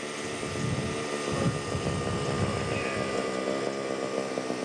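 Engine of a radio-controlled scale model airplane running steadily in flight, coming in for a forced landing.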